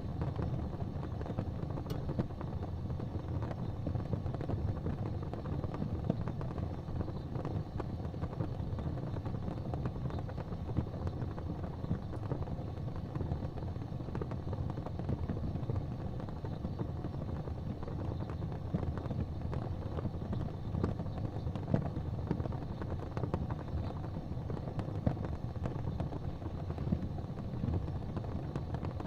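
Fireplace fire crackling with scattered small pops over a steady low rumble.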